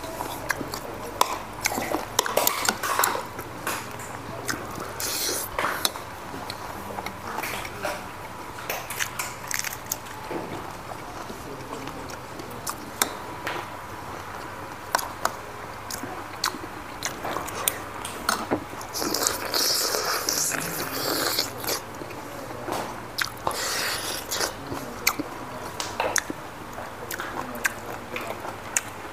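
Close-miked chewing and biting of food, with many short clicks of a metal spoon and fork against bowls.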